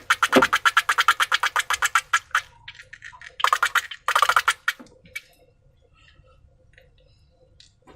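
Rapid, even crackling clicks, about ten a second, in two runs, then a few scattered soft clicks: slime being squeezed and worked by hand.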